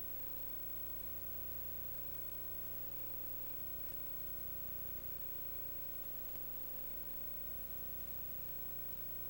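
Steady hum with an even hiss beneath it, unchanging throughout, with no other sounds.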